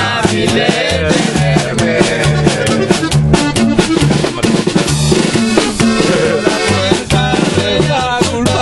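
A live norteño trio playing an instrumental passage with no singing. A bass line alternates notes on the beat under sharp rhythmic strokes and a melody line.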